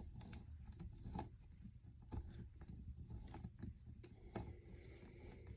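Faint, scattered clicks and light knocks of hand tools and small metal engine parts being handled, a few seconds apart.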